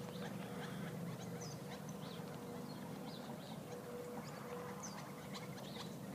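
Birds chirping with many short, high calls scattered throughout, over a faint steady hum.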